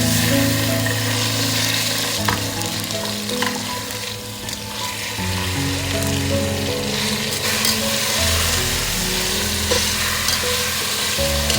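Chicken frying in a pan with a steady sizzle while it is stirred, with a few light knocks of the utensil against the pan. Soft background music plays underneath.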